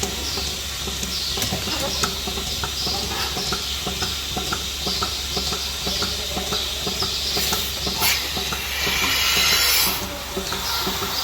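Milking-parlour machinery running: a steady low hum under a noisy bed of irregular small clicks and clatter, with a louder hiss for about two seconds near the end.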